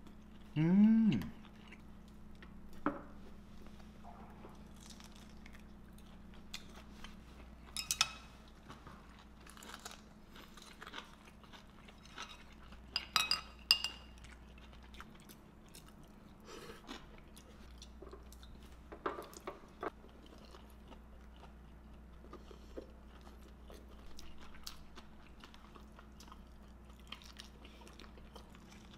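Close-up eating: a person chewing and biting glazed pork back ribs, with scattered sharp clicks and taps of chopsticks and dishes, the loudest a quick cluster about halfway through. A short voiced 'mm' comes about a second in.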